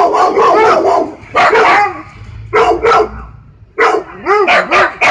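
A dog barking repeatedly, in quick clusters of two to several sharp barks with short pauses between them. Some of the later barks rise and fall in pitch like yips.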